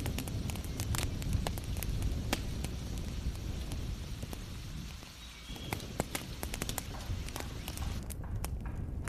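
Wood fire crackling, with frequent irregular sharp pops and snaps over a steady low rumble and hiss of heavy rain. The sound eases briefly about halfway through.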